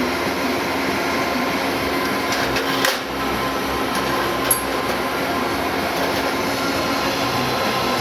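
Automotive lift's electric hydraulic pump motor running steadily as it raises the car body, with a sharp click a little before three seconds in.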